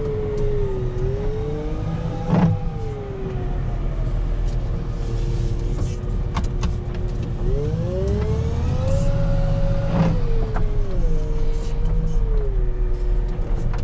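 Wheel loader's diesel engine and hydraulics working, heard from the cab: a low rumble under a whine that rises and falls with the revs as it pushes snow with a sectional snow pusher. Two sharp clunks, a couple of seconds in and again about ten seconds in.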